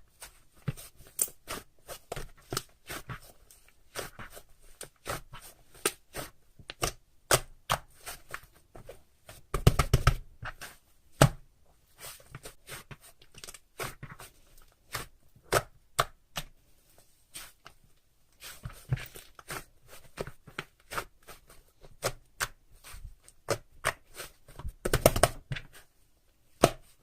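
Slime being squeezed and poked by hand, giving a steady run of sharp, wet clicks, with a denser, louder flurry about ten seconds in and again near the end.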